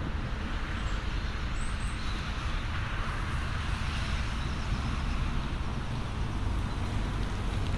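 Steady road traffic noise: a continuous low rumble with a hiss of tyres that swells a little about three seconds in.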